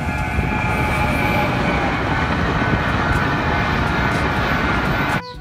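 Electric express passenger train passing close by: a loud, steady rumble of wheels on rails mixed with hiss. It cuts off abruptly near the end.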